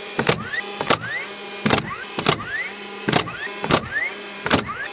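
Nails being driven into lumber: about seven sharp, evenly paced strikes, each followed by a short rising ring, over a steady low hum.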